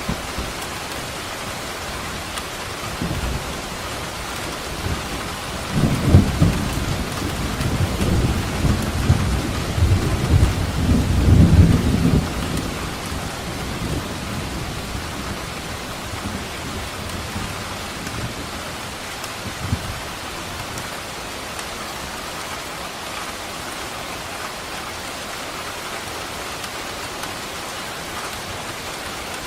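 Steady heavy rain with a roll of thunder rumbling low for about six seconds in the first half, and a faint distant rumble later on.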